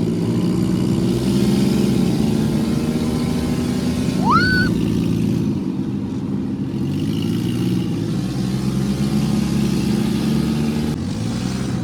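A vehicle engine running steadily, with a short rising whistle about four seconds in.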